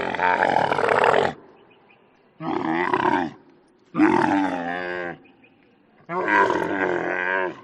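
An animal calling repeatedly with loud, harsh calls about a second long and short pauses between them, four calls in all.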